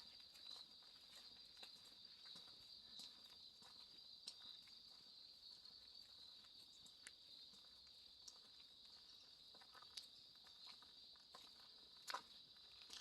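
Faint, steady high-pitched hum of an insect chorus, with scattered soft clicks and one sharper click near the end.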